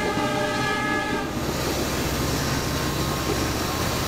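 Passenger train's horn sounding one long steady chord that stops about a second in, over the continuous running rumble of the moving train.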